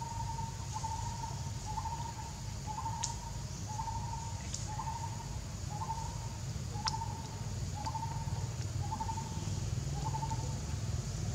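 A bird calling a short, clear note over and over, about once a second, about ten times. Underneath runs a steady low rumble and an even high hiss.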